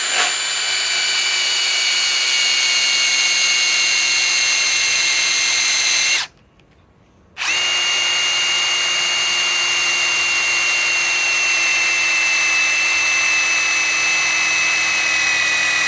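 Ryobi PSBIW25 compact cordless impact wrench driving a large lag bolt into wood, in two long runs with a pause of about a second between them. It gives a steady whine whose pitch sags slowly as it works under load, on a battery down to one bar that seems to be dying.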